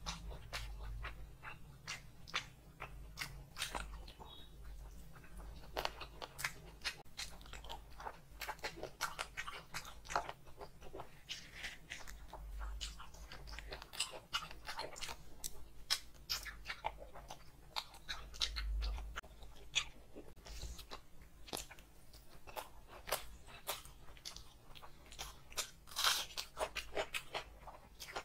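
A person chewing and crunching food close to a clip-on microphone, with a dense, irregular run of sharp wet mouth clicks and bites; the loudest crunch comes near the end.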